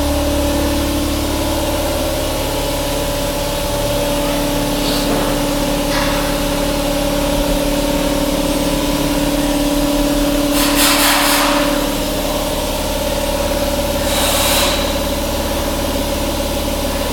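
A 2003 Harley-Davidson V-Rod's liquid-cooled Revolution V-twin idling steadily. Two short hissing noises come over it, about eleven and fourteen seconds in.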